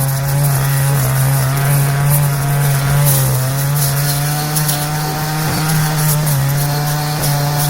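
Engine-powered brush cutter running steadily at working speed, its engine note wavering slightly now and then as it cuts weeds.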